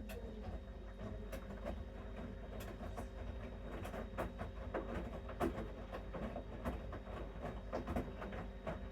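Bosch Series 6 front-loading washing machine in its main wash: the drum turning and tumbling wet laundry, giving irregular swishes, splashes and soft knocks over a steady motor hum.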